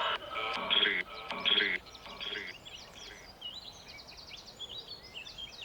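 Small birds singing in the early-morning dawn chorus: scattered chirps and whistles, with one bird's fast trill about four seconds in. Three short, louder pitched sounds come in the first two seconds.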